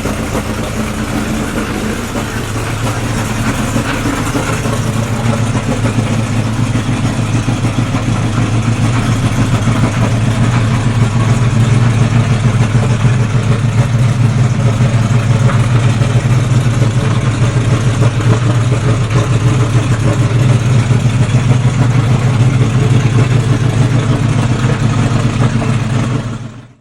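Brabham BT62's 5.4-litre V8 running at a steady engine speed without revving, growing louder over the first ten seconds or so, then holding steady before fading out quickly at the end.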